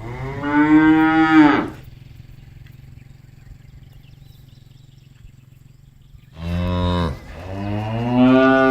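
Cows mooing: one long moo that rises in pitch and then holds, a short low moo about six and a half seconds in, then another long moo near the end. A steady low hum runs underneath.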